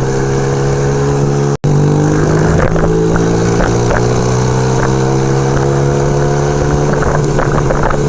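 1975 Kawasaki KZ400 parallel-twin motorcycle engine running under way, its pitch slowly rising as the bike gathers speed. The sound cuts out for an instant about a second and a half in.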